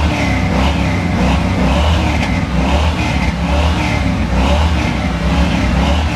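Car engine running with a loud, steady low exhaust rumble.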